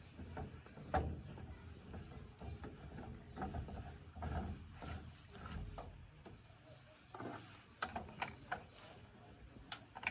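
Irregular clicks, knocks and rattles of hands working parts and tools during a repair job, with a sharper knock about a second in and a cluster of clicks near the end.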